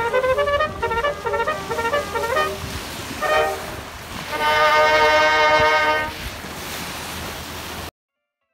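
Military brass band playing a march, ending on a long held brass chord, then stopping abruptly near the end.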